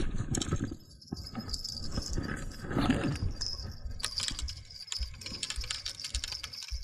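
Small bite-indicator bells on fishing rods jingling and rattling irregularly, the sign of a fish taking the bait.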